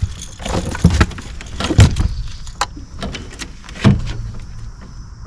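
A string of knocks and thumps from gear being handled in a fishing boat, with lighter clicks and rattles between them. The two heaviest thumps come about two seconds in and about four seconds in.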